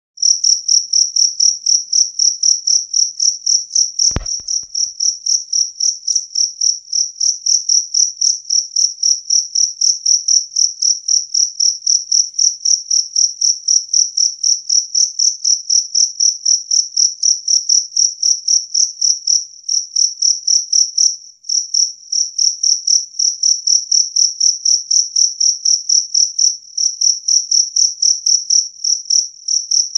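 A jangkrik kalung, the two-spotted field cricket (Gryllus bimaculatus), chirping loud and clear in a steady run of short high-pitched chirps, about three to four a second. A single brief click sounds about four seconds in.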